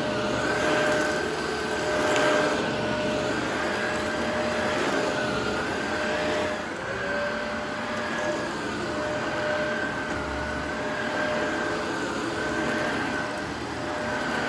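Upright vacuum cleaner running steadily, its motor whine over the rush of suction air. The pitch dips slightly and the level swells and eases as it is pushed forward and pulled back over the floor.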